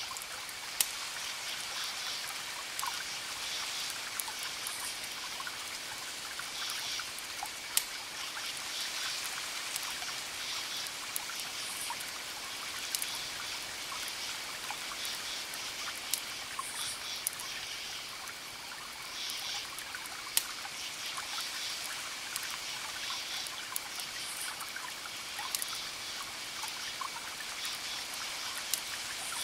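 Wood fire crackling: a steady hiss with scattered sharp pops every few seconds. Clusters of pulsing high-pitched sound come and go over a faint steady high tone.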